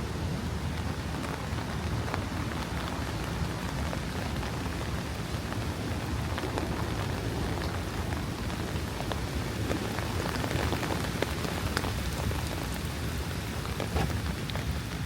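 Steady rain falling, with many small drop patters and clicks over an even hiss. A constant low rumble runs underneath.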